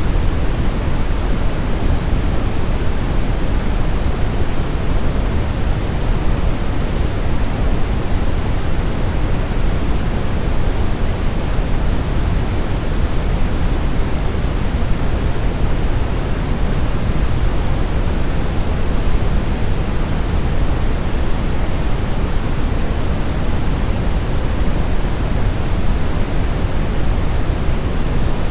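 Synthetic brown noise: a steady, even rushing hiss weighted heavily toward the low end, with no change throughout.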